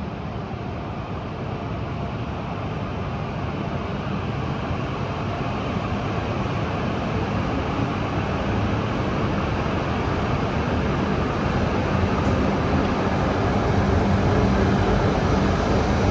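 E5 series Shinkansen train running, its steady rushing noise and low hum growing gradually louder.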